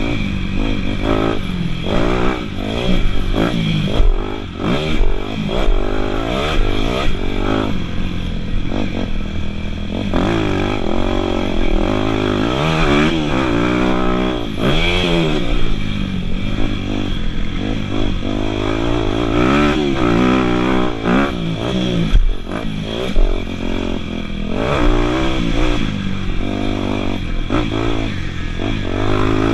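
Dirt bike engines revving up and down, their pitch rising and falling again and again, with more than one bike running at once.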